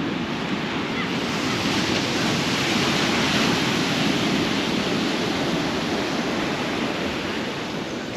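Sea surf washing onto the shore: a steady rush of breaking waves that swells a little about three seconds in.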